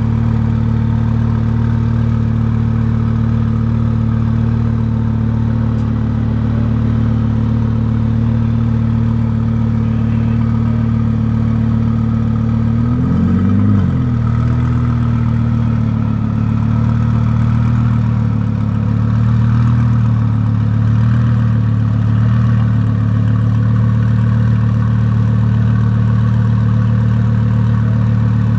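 Twin-turbo Audi R8 V10 engine, tuned to about 2000 hp, idling steadily, with one short throttle blip about halfway through.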